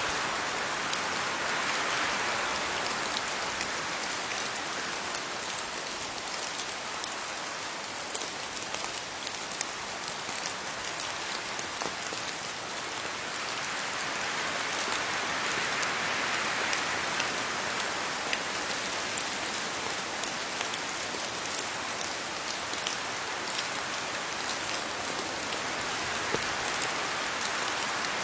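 Steady rain falling on leaves, a dense patter of drops that swells and eases gently.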